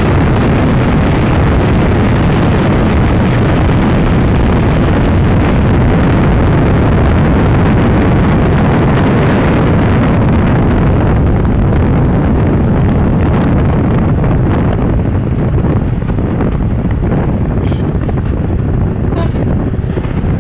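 Heavy wind roar on the microphone over the engine and road noise of a Honda Supra X 125 motorcycle ridden at top speed. The hiss eases and loses some of its top end from about halfway through.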